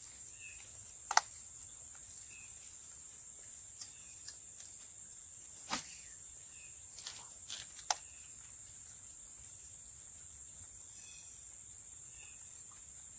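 Steady high-pitched chorus of insects, with a few sharp clicks or taps, the loudest about a second in and another near eight seconds.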